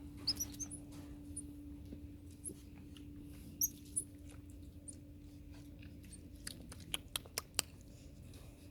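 A small animal making a few short high-pitched squeaks, then a quick run of sharp clicks near the end, over a steady low hum.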